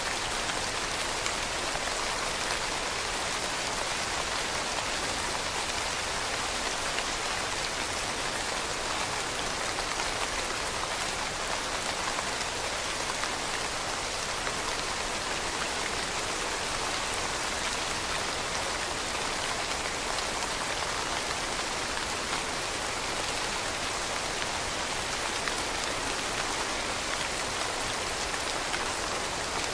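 Steady rain falling on leaves, an even hiss with fine pattering drops.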